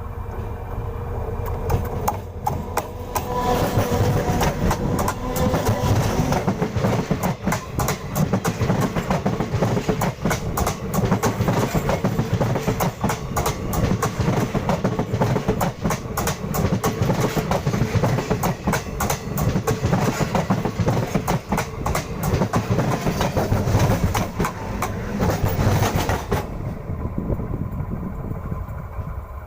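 A train passing close by on the track, its wheels clattering over the rails in a long, fast run of clacks over a low rumble. It builds over the first few seconds and falls away near the end.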